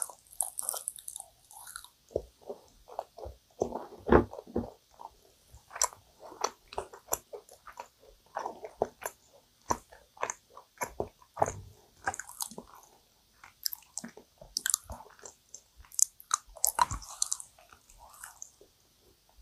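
Chewing dense, sticky yakgwa (Korean honey-fried cookie), with irregular mouth clicks and bites; the loudest chewing comes about four seconds in.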